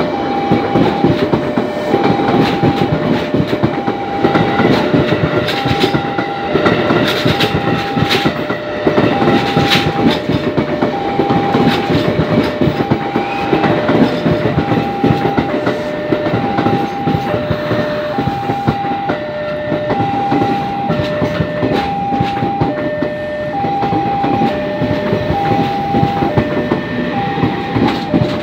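A KRL Commuter Line electric train passes close by, its wheels clattering over the rail joints. Throughout, a level-crossing warning signal sounds a steady two-tone chime, alternating high and low about once a second.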